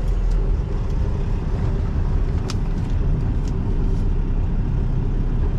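Semi truck's diesel engine running steadily at low revs. A few light clicks sound over it, the sharpest about two and a half seconds in.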